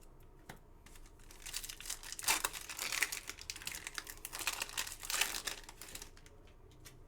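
Crinkling and tearing of a foil trading-card pack wrapper being ripped open and handled, in irregular crackly bursts for several seconds.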